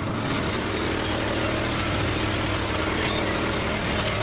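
An engine idling steadily, with a thin high whine joining about half a second in.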